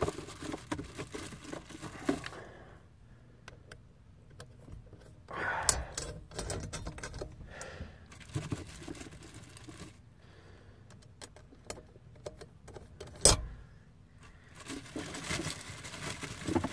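Scattered light clicks and clinks of hand work with tools and hardware, with short bursts of handling noise and one sharp knock about 13 seconds in.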